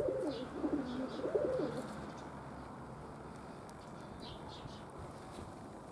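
Domestic pigeons cooing, a few curving coos over the first two seconds, then a steady hiss.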